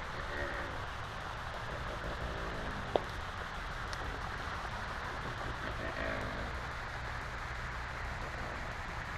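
Steady outdoor background hiss with faint, distant voices now and then, and one sharp click about three seconds in.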